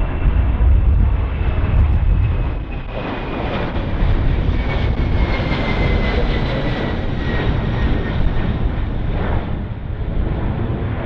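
Fixed-wing aircraft engine noise, a heavy steady rumble with a high whine that slides slowly down in pitch.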